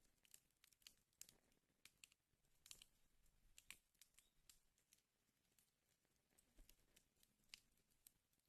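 Wood fire in a fireplace crackling faintly: irregular sharp pops and snaps, several a second and bunched in places, over a soft hiss.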